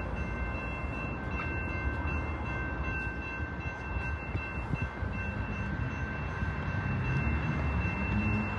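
Diesel locomotives leading a freight train on approach, a steady low engine rumble that grows a little louder near the end, with faint steady high tones above it.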